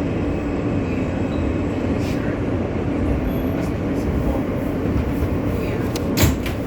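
New York City subway car standing at a station, a steady rumbling hum from the train, with one sharp clack about six seconds in.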